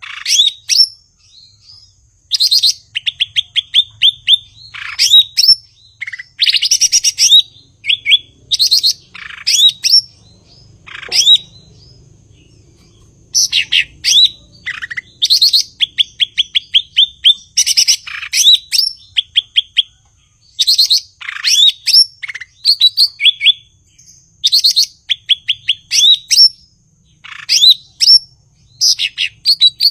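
Cucak ijo (green leafbird) singing continuously and loudly: a string of sharp whistled phrases and fast rattling trills, repeated about every second, with a short pause about halfway through.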